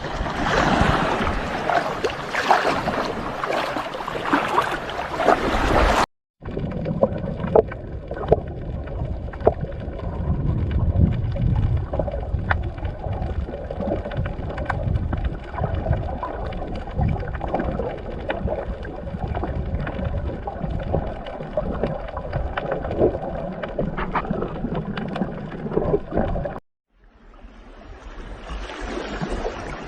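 Outdoor water sounds from a boat trip in three clips: first a hiss of wind and waves, then after a short cut a long stretch of low rumble with many small splashes, then after another cut near the end a softer rush of water.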